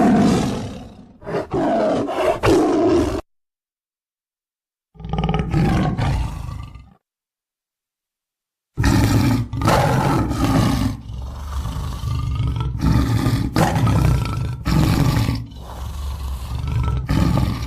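Tiger roaring, a run of long roars in three stretches broken twice by a few seconds of dead silence.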